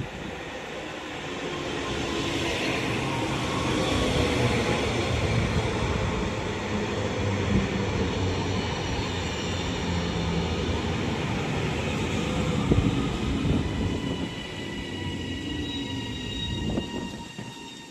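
Northern Class 331 electric multiple unit pulling into the station and slowing: wheel and motor rumble with a steady high whine, swelling over the first few seconds and dying away near the end as the train comes to a stop.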